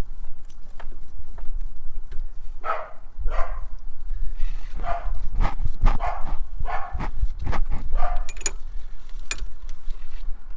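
A dog barking repeatedly, about eight barks in a few seconds, with faint clicks in between.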